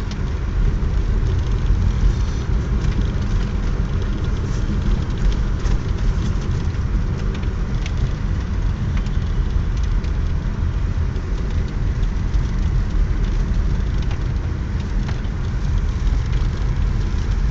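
Car interior road noise while driving: steady engine and tyre rumble heard from inside the cabin.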